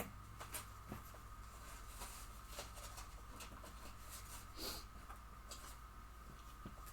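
Quiet room tone: a steady low hum with a few faint, scattered clicks and rustles.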